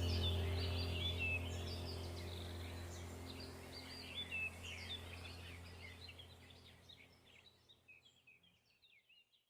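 Songbirds chirping over a low steady drone, the whole sound fading out gradually to silence about seven seconds in.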